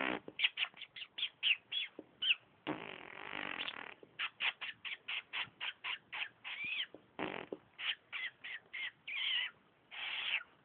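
Budgerigar chattering in a quick string of short chirps, about two or three a second, with a longer scratchy warble about three seconds in and a few drawn-out calls near the end.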